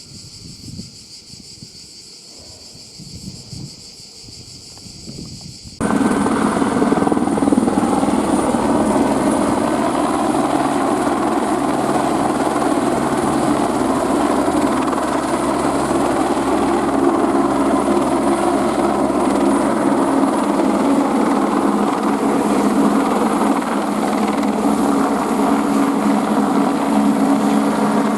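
A steady high insect chorus, then an abrupt jump about six seconds in to an Airbus AS350 Écureuil helicopter's turboshaft engine and rotors running loud and steady, with a thin high turbine whine over the rotor noise.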